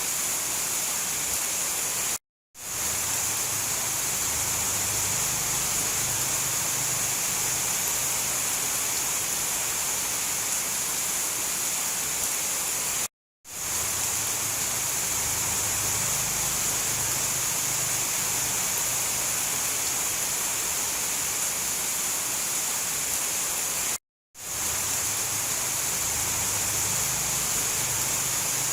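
Steady downpour of rain, an even hiss heaviest in the highs. It cuts out to silence three times, about eleven seconds apart, and fades quickly back in each time, like the seam of a looped recording.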